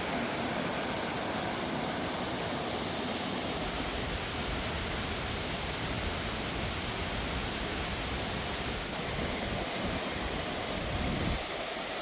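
Steady rushing of a fast mountain stream, an even hiss with a low rumble underneath that swells slightly near the end.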